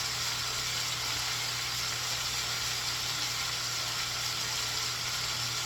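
Chopped scallion, onion, sweet pepper and garlic sizzling steadily in hot oil in a pan, over a steady low hum.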